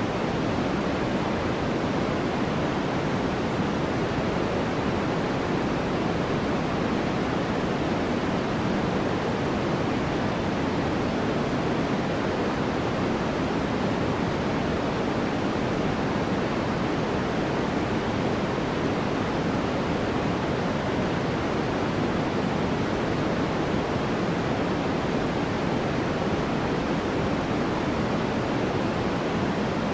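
Steady, unchanging white noise for sleep: a constant hiss weighted toward the low and middle range and fading toward the highs, with no change at all.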